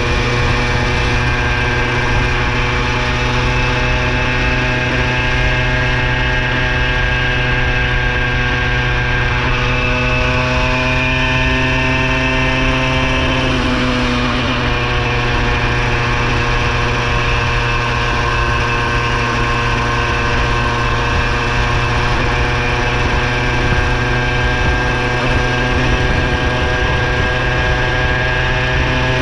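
Minarelli vertical two-stroke engine on a motorized bicycle running steadily. Its pitch rises slightly partway through, then drops back sharply about halfway.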